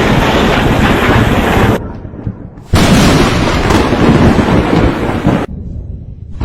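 Loud, crackling thunder from close lightning strikes. The sound breaks off abruptly to a low rumble about two seconds in and again near the end, then comes back suddenly in between.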